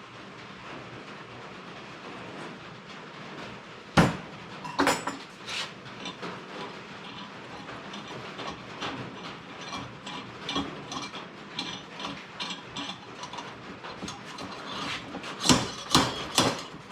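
Metal tool work on a motorcycle engine case while a blind bearing is pulled. One sharp metallic knock comes about four seconds in. It is followed by irregular ratchet-like clicks and knocks, with several loud strikes near the end.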